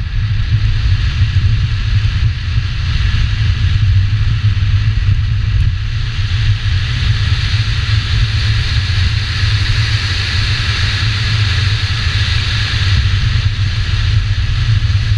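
A 2000 Subaru Legacy GT's 2.5-litre naturally aspirated flat-four engine running at speed under load, with a steady heavy low rumble and a hiss of wind over the hood-mounted microphone.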